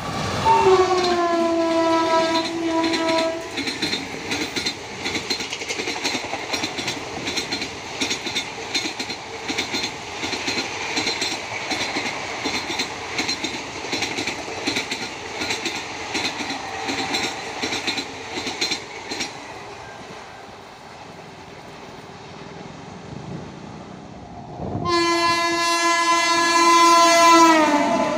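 An Indian Railways electric locomotive sounds its horn for about three seconds as it approaches at speed, the pitch dropping as it passes. Its coaches then rush by with a rhythmic clatter of wheels over rail joints, dying away after about twenty seconds. Near the end a second train's horn sounds for about three seconds and falls in pitch as that train, a WAP-7-hauled express, passes.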